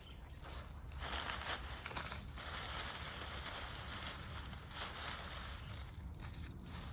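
Dry fallen leaves crackling and rustling, an irregular, continuous crunching hiss.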